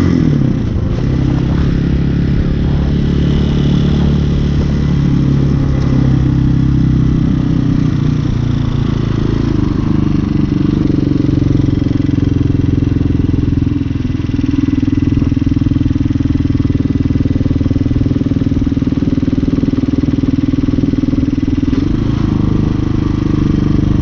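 Hawk 250 dual-sport motorcycle engine running under way, heard from a helmet or bike-mounted camera. The engine note drops just after the start, climbs again about ten seconds in, then holds steady at cruising speed.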